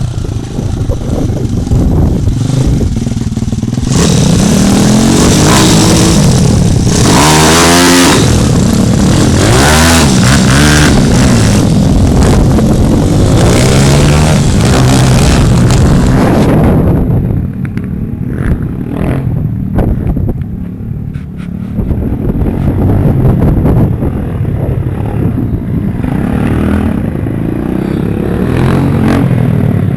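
Pit bike engines running hard, the pitch climbing and dropping again and again through the gears. After about 17 seconds the sound drops to a lower, duller running before rising again.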